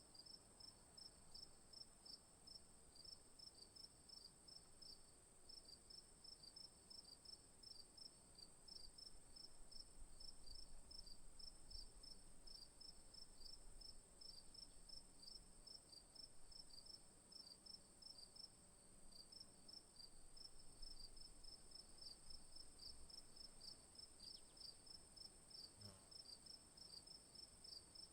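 Faint insect chorus: a steady high-pitched buzz with a regular chirping about three or four times a second, as of crickets.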